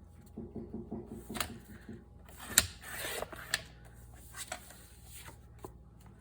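Paper being cut to size on a paper trimmer: a quick run of light clicks, one sharp snap, a brief rustle of paper, then a few lighter clicks.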